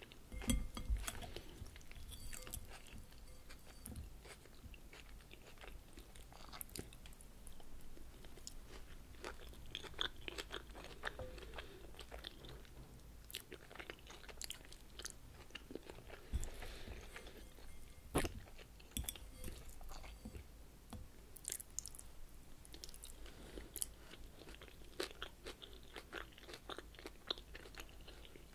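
Close-miked chewing and crunching of a crunchy salad of raw vegetables, in irregular bites. The loudest crunches come just after the start and again about two-thirds of the way through.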